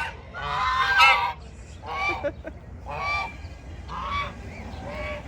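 Domestic waterfowl on a farm honking loudly. A long call comes about half a second in, followed by shorter honks roughly once a second.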